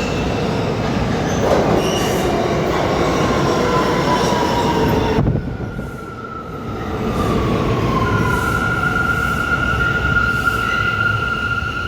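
New York City subway train running through an underground station, with high whining tones and wheel squeal over the rumble of the cars. One whine falls slowly in pitch. The sound drops suddenly about five seconds in, then a steady high tone holds through the second half.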